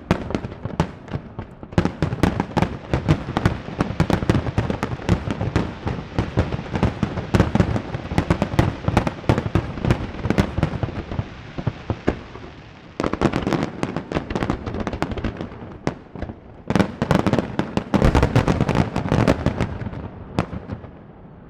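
Fireworks display: a dense barrage of rapid bangs and crackling bursts, easing briefly about 13 and 16 seconds in, then dying away near the end.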